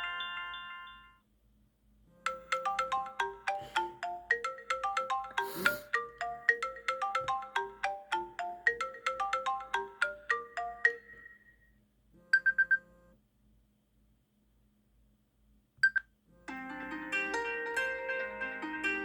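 Old iPhone iOS ringtones played one after another. One tone fades out about a second in, then a quick run of short plucked-sounding notes plays for about nine seconds. A brief triple chime and a single short ding follow, and another melodic ringtone begins near the end.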